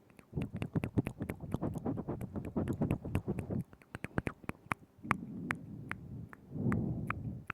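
Close-miked ASMR mouth sounds: many quick wet mouth clicks and smacks, several a second, with stretches of low muffled rumble beneath them.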